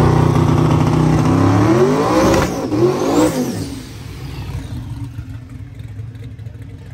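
Drag-racing truck's engine held at steady high revs, then climbing in pitch twice as it accelerates away, fading after about four seconds.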